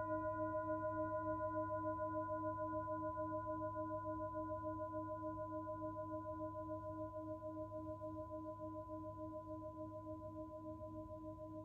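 Himalayan singing bowl ringing on after being sounded, its overlapping tones pulsing in a steady wavering beat as they slowly fade.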